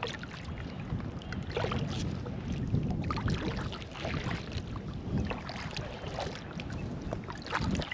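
Wind buffeting the microphone, with water lapping and splashing against a kayak hull as it drifts quickly in the wind, in uneven slaps and ticks.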